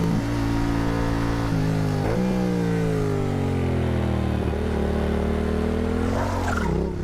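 Motorcycle engine running hard, its pitch stepping and gliding up and down with throttle and gear changes. A rougher, noisier patch comes near the end as the pitch dips and climbs again.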